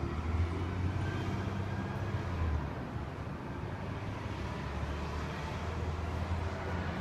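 Gusty wind buffeting the phone's microphone: a low rumble that swells twice, over a steady rush of wind.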